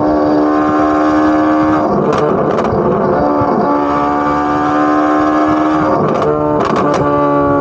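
Corvette C8 Z06's flat-plane-crank V8 exhaust, loud, held at a steady high engine pitch. The note breaks off and picks up again about two seconds in and about six seconds in, with short crackles at each break.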